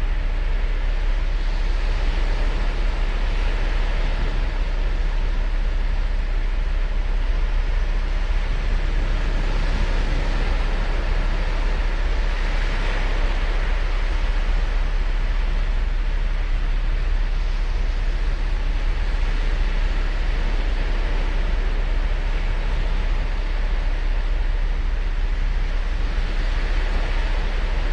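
Ocean surf on a beach: a continuous wash of breaking waves with a deep rumble, swelling every few seconds as sets come in.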